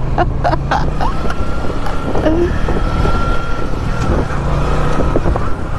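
Elevated metro train passing with a steady high whine from about a second in until near the end, over the low rumble of the motorcycle's engine and surrounding traffic.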